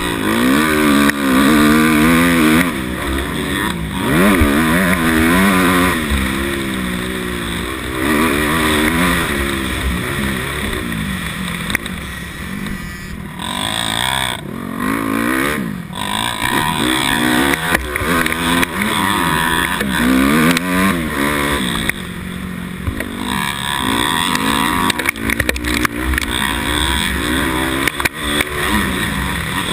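250 motocross bike engine revving under throttle, its pitch climbing and falling again every second or two, with brief let-offs about halfway through.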